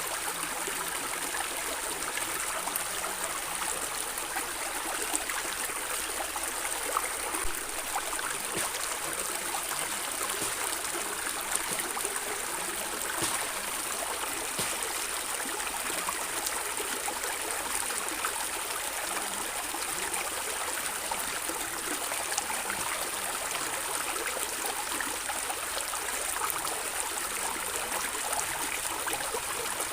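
Water of a small stream gurgling and splashing steadily, an even rush with many small splashes throughout.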